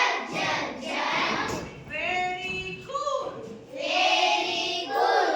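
Children's voices singing together, with some notes held.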